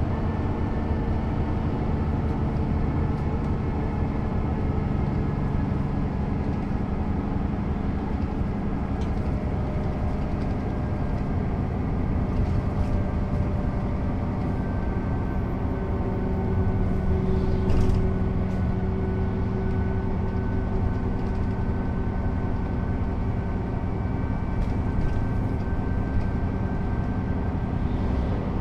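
Mercedes-Benz O 407 bus's six-cylinder diesel engine running steadily as the bus drives, its engine tone shifting about halfway through. A brief knock sounds about two-thirds of the way in.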